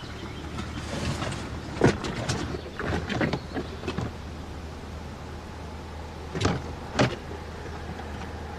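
Someone rummaging for something: objects being handled with scattered clicks and knocks, a cluster in the first half and two sharper knocks near the end, over a steady low hum.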